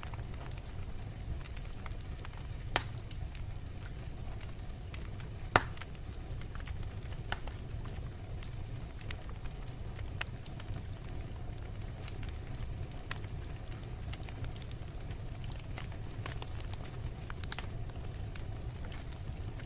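Wood logs burning in a fireplace: a steady low rumble of the flames with scattered crackles throughout, and two louder pops about three and five and a half seconds in.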